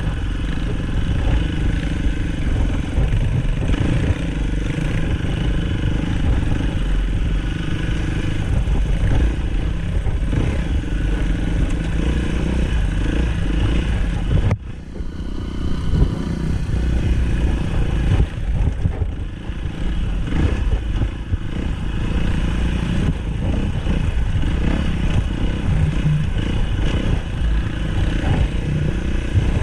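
Dirt bike engine running while the bike rides along a trail, with a sudden short drop in level about halfway through before it carries on.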